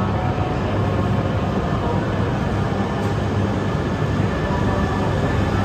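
E3 series Shinkansen train running in toward the platform at low speed: a steady low rumble with faint, steady high tones above it.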